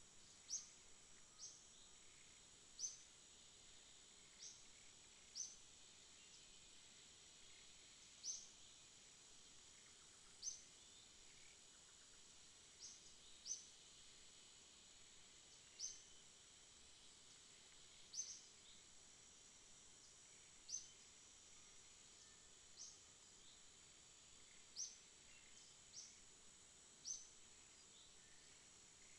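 Faint night ambience: a steady high-pitched insect trill, with short high chirps repeating every second or two at irregular spacing.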